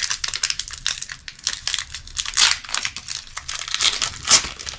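Foil wrapper of a Pokémon trading card booster pack crinkling as it is torn open and handled, with a dense run of sharp crackles that peak twice, about halfway through and near the end.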